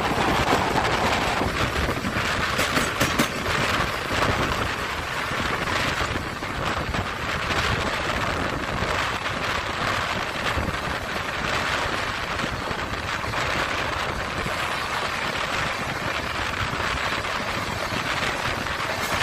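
Running noise of a moving express passenger train, recorded from beside the coach: a steady rush of wheels on rails and wind buffeting the microphone, with a few sharp clicks about two to three seconds in.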